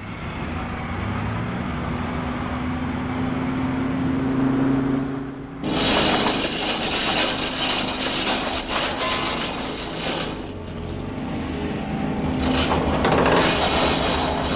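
A Lotus Elite prototype's engine running as the car drives along, its note rising slowly. About six seconds in it gives way to a loud, steady clattering noise in a factory bay, which dips briefly around ten seconds and swells again near the end.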